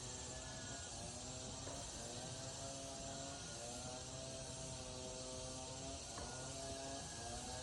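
Forest insects chirring steadily, with a high continuous buzz. Underneath are several held tones that change pitch every second or two.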